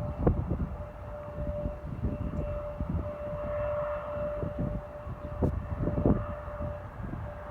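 Airplane engines running with a steady tone, with wind buffeting the microphone; a rushing engine noise builds near the end.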